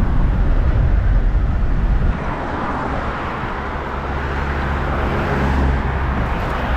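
A moving car's engine and road noise. It is a heavy low rumble for about two seconds, then eases to a steadier, slightly quieter drone.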